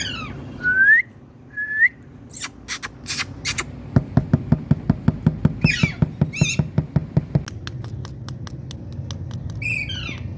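Indian ringneck parrot whistling: two short rising whistles, then a few sharp clicks and a fast, even run of clicks about six a second. Short warbling squawks break in midway and again near the end.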